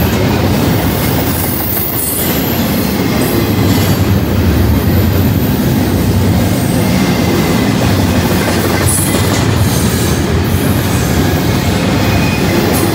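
Double-stack intermodal freight train's loaded well cars rolling steadily past: a continuous loud rumble and clatter of steel wheels on the rails.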